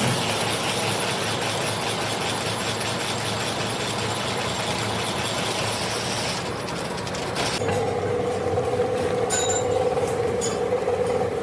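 Crankshaft machining equipment running, with a high, hissing noise and a thin high whine. About seven and a half seconds in, the hiss and whine stop suddenly, leaving a steady machine hum with a few light clicks.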